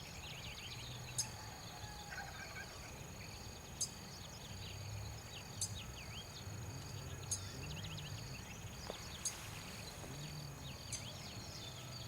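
Outdoor insect and bird ambience. A steady high insect trill runs with a pulsing chirp just below it, a short sharp high call comes about every two seconds, and small birds twitter in scattered chirps.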